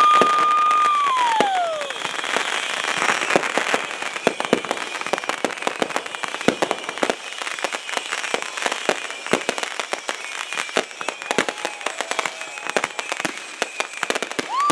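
Consumer fireworks finale: a shrill whistle drops in pitch about a second in, then many rapid crackling pops and bangs go off. Another whistle starts up near the end.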